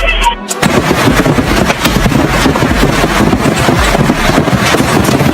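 Hailstones pelting hard surfaces in a loud, dense, unbroken clatter of countless small impacts, starting about half a second in after a brief snatch of music.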